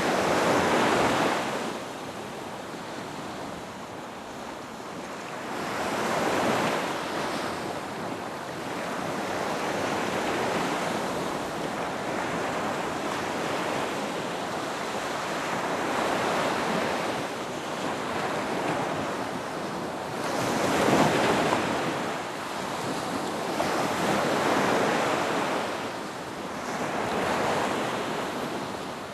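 Ocean waves breaking on a beach, the surf swelling and washing back in surges every few seconds.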